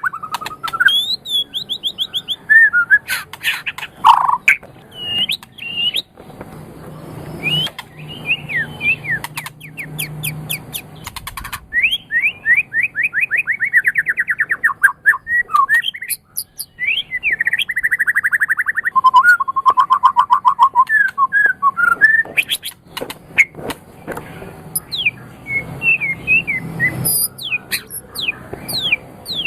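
White-rumped shama (murai batu) singing a loud, fast-changing song. It mixes sweeping whistled notes, quick runs of repeated notes and trills, with sharp clicking notes between the phrases.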